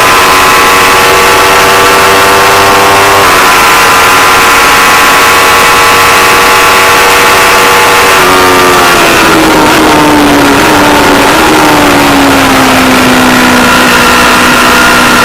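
Aprilia Tuono V4 Factory's V4 engine running hard at high revs, with a slight change in note about three seconds in. From about eight seconds in its pitch falls smoothly over four seconds as the bike slows, then holds at a lower steady note. A loud rushing noise lies under it throughout.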